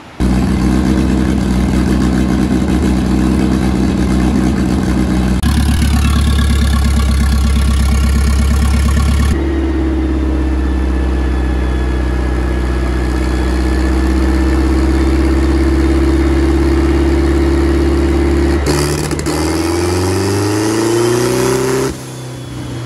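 Turbocharged Volvo wagon engine catching and running loud and steady at a raised idle, its note changing a few times; over the last few seconds the revs climb, then the engine cuts off. This is the run in which a fuel injector blew out of the poorly bracketed fuel rail and sprayed fuel.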